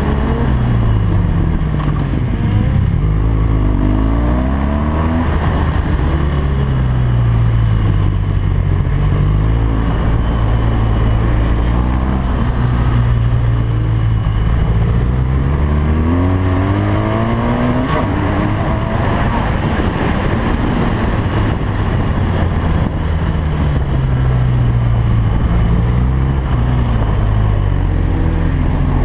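BMW R1200GS LC boxer-twin motorcycle engine at race pace, its revs climbing hard and then falling again and again as it shifts gears and slows.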